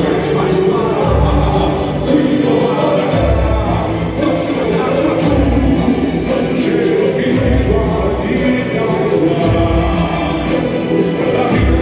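Boi-bumbá toada played live and amplified: lead and choir voices singing over heavy, pulsing bass and drums.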